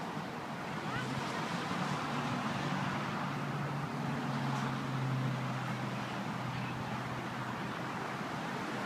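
A vehicle engine running at a steady low pitch for most of the stretch, fading out near the end, over outdoor background noise.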